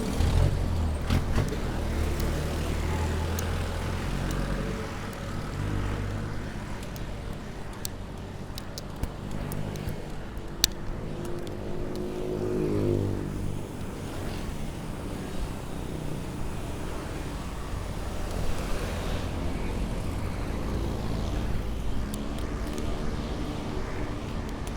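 City road traffic heard from a moving bicycle: a steady low rumble, with a motor vehicle's engine swelling and fading as it passes about twelve seconds in.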